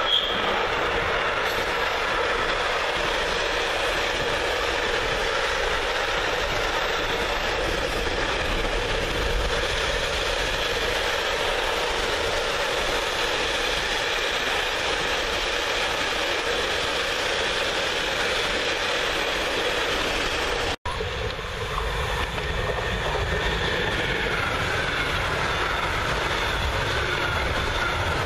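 Freight train wagons rolling past at speed, a steady loud rumble of steel wheels on rail. About three-quarters of the way through, the sound drops out for an instant, then resumes with wagons carrying lorry semi-trailers rolling by.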